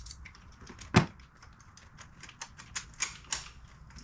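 Socket ratchet clicking in short, uneven runs while a spark plug is being loosened, with one loud metallic knock about a second in.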